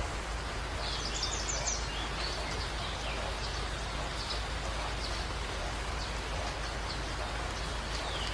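Recorded nature ambience: a steady rain-like hiss with small birds chirping, a quick run of high chirps about a second in and scattered calls after.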